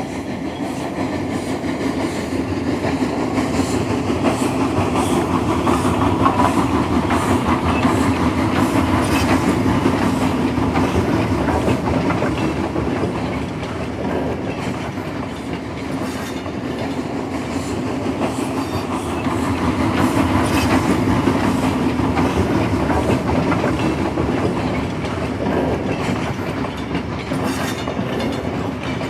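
A train running on rails, with a steady rumble and clickety-clack of wheels over the track joints, swelling louder twice and easing off in between.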